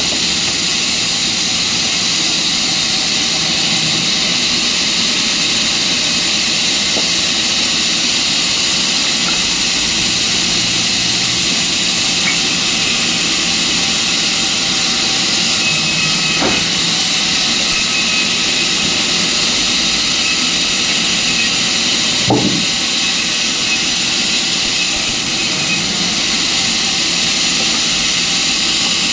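Sawmill machinery running, a loud, steady mechanical noise with a strong hiss that does not change, and two brief sounds rising over it after the middle.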